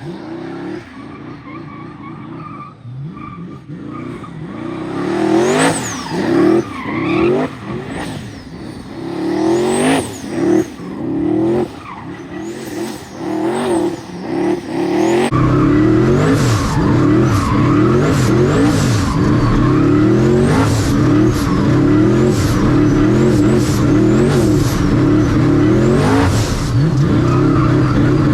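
V8 race car engine revving up and down again and again with the rear tyres squealing in a burnout. About halfway through it settles into a long, loud, held high-rev run with the tyres spinning continuously.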